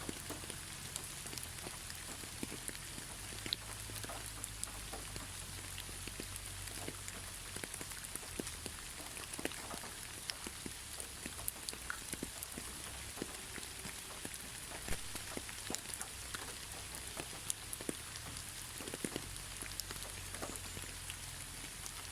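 Gentle, steady rain with no thunder: a constant hiss dotted with the ticks of individual drops hitting a surface.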